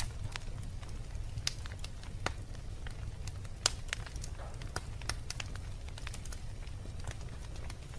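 Wood fire in a fireplace crackling: irregular sharp pops and snaps, one louder pop a little past the middle, over a steady low rumble of the burning.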